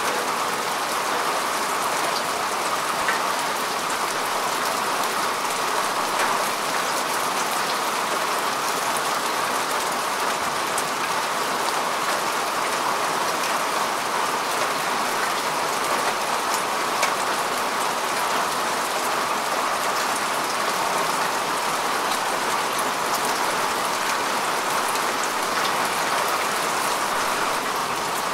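Steady rain falling on grass and earth, an even hiss with many small drop ticks.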